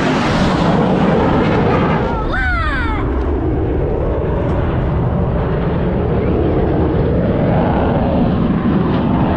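Jet aircraft flying past, a loud steady roar that is brightest in the first second. A brief shout rises over it about two seconds in.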